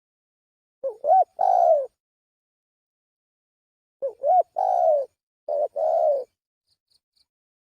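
Spotted dove (tekukur) cooing from a lure-call recording. About a second in comes a short phrase of quick rising notes ending in a longer coo. From about four seconds in comes a longer phrase: the same opening, a drawn-out coo, then two more coos.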